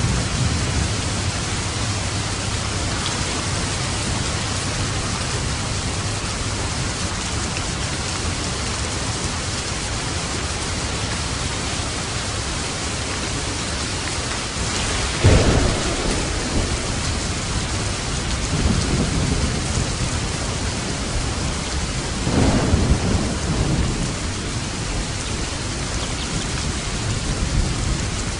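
Steady heavy rain on a roof with thunder: a sharp, close crack about halfway through that trails off into a low rumble, then another roll of thunder a few seconds later.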